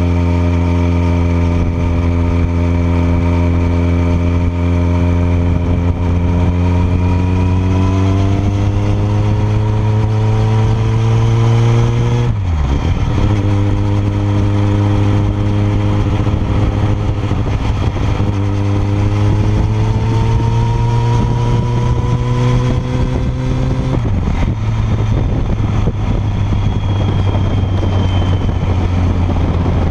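Kawasaki ZX-14R inline-four running through a Yoshimura R77 exhaust while riding, heard close to the silencer. The engine's pitch climbs slowly and steadily, broken by two brief sharp dips, about twelve and twenty-four seconds in, over a steady rush of wind.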